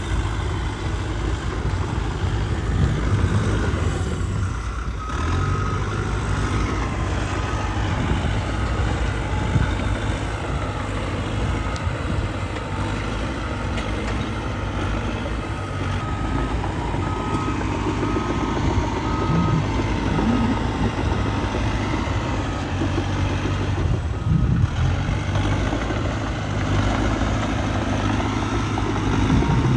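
Diesel engine of a Cat D3K 2XL bulldozer running steadily under load while pushing dirt. A reversing alarm beeps in a steady series from about five seconds in until near the end.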